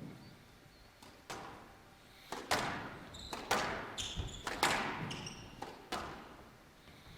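Squash rally: the ball cracking off rackets and the court walls in a quick run of sharp hits, with short high squeaks of shoes on the court floor between them.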